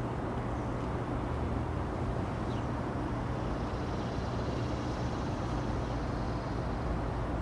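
Diesel locomotives of an approaching freight train running in the distance: a steady low engine drone.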